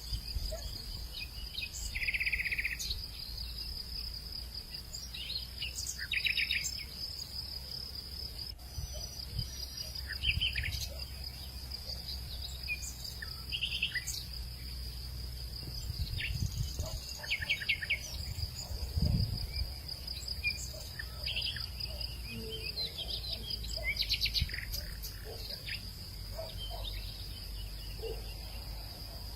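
Insects, crickets among them, keeping up a steady high-pitched trill, with scattered short bird chirps and calls over it and a low rumble of wind underneath.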